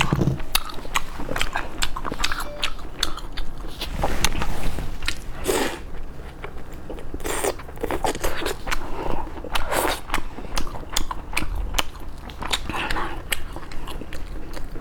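Close-miked eating: repeated biting and chewing, with many sharp clicks and several louder noisy bursts.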